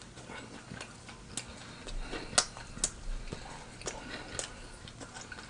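A man chewing a sandwich close to the microphone: irregular wet mouth clicks and smacks, a handful of them spread unevenly, the loudest about two and a half seconds in.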